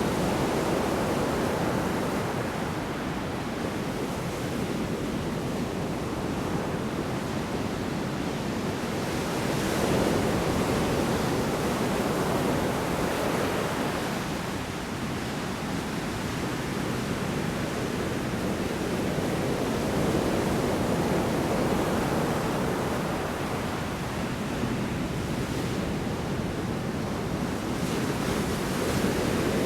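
Large storm waves breaking on a shore: a continuous rush of surf that swells louder about every ten seconds as each big wave comes in.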